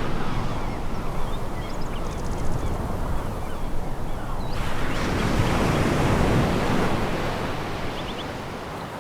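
Sea waves breaking and washing on a pebble beach: a steady rush of surf, with a new wave surging in about halfway through and then ebbing.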